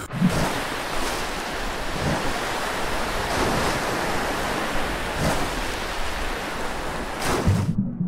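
Rough sea waves churning and washing, with wind. Near the end the sound turns suddenly muffled and low, as if heard from under the water.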